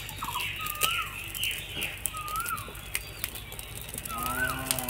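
A bird whistling a short rising-and-falling call several times, with higher chirps between, over sharp crackles from a small wood fire.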